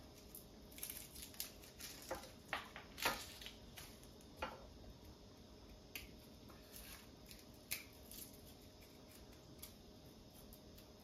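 Garlic being prepared by hand: scattered light clicks, snaps and taps, several close together in the first few seconds, then sparser.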